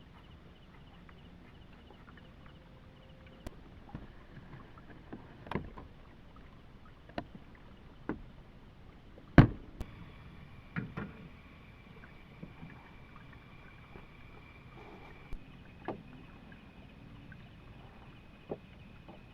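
Irregular knocks and bumps, a few seconds apart, with the loudest about nine seconds in, over a steady background hiss and a faint high steady tone.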